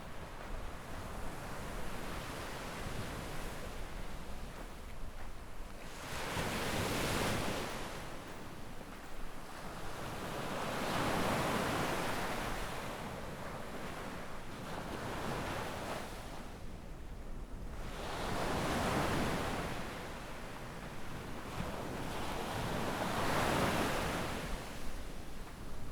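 Small ocean waves breaking and washing up the sandy shore, four surges, each swelling and fading over a few seconds, with light wind on the microphone underneath.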